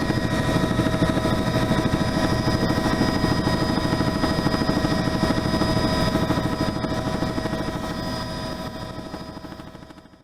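Helicopter's turbine engine and rotor running steadily, with a steady whine over the rotor noise. It fades out over the last two seconds.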